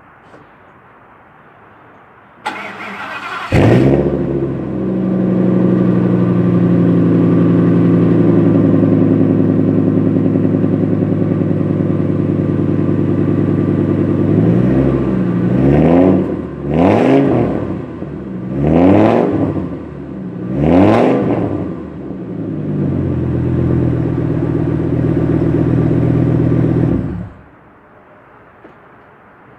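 Ford F-250's V10 engine cold-started: the starter cranks for about a second, the engine catches with a loud flare and settles into a fast cold idle. It is revved three times in a row in the middle, returns to idle, and is switched off suddenly near the end.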